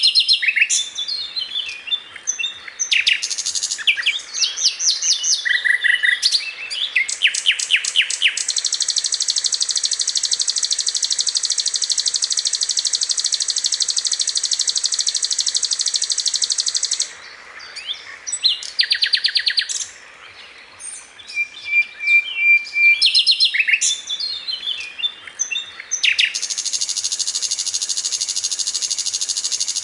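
Sikatan londo, a blue flycatcher, singing in a masteran tutoring recording: quick varied whistles and chattering runs of repeated notes. A long, even buzzy trill lasts about eight seconds, then there is a short lull and more phrases, and another long trill starts near the end.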